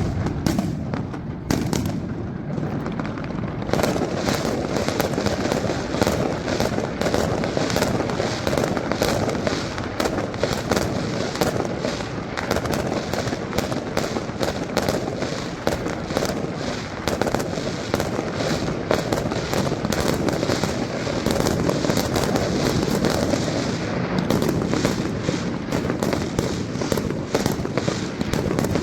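Fireworks display: a dense, continuous barrage of bangs and crackling reports with a rumbling background, many bursts a second.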